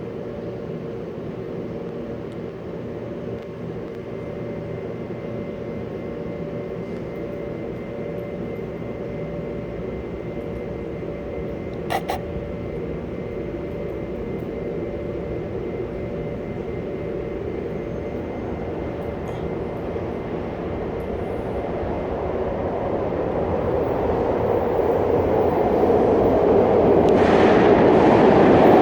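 Steady machine rumble with a low hum, with a single sharp click partway through; it grows steadily louder toward the end, strongest in the last couple of seconds.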